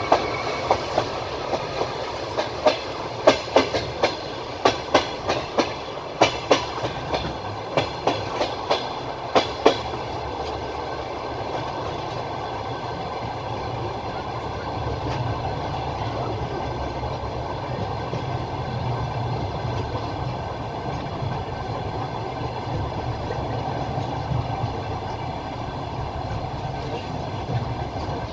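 Passenger train wheels heard from a carriage: for the first ten seconds or so the wheels knock over rail joints in quick clusters of clicks, then the run settles into a steady rolling rumble.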